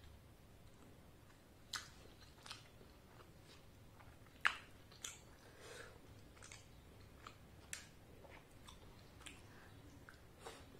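Mouth sounds of eating luchi with ghugni: soft chewing and biting with scattered short wet clicks and smacks, the sharpest about four and a half seconds in.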